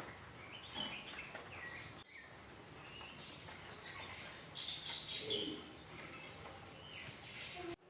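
Birds chirping and calling in short bursts over a steady background hiss, with the sound cutting abruptly twice where the footage is spliced.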